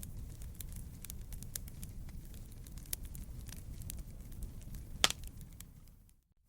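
Wood fire in a fireplace crackling, with a steady low rumble of the flames and scattered sharp pops, the loudest about five seconds in. The sound fades out near the end.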